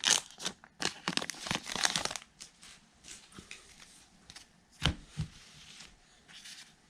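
A baseball card pack's wrapper crinkling and tearing as it is ripped open, dense crackling for the first two seconds, then fainter rustling with one soft knock about five seconds in.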